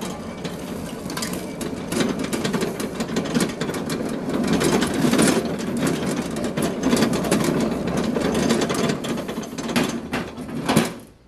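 Homemade electric lawn tractor driving over rough ground, its frame and parts rattling and clattering with rapid, uneven knocks. The noise stops abruptly near the end.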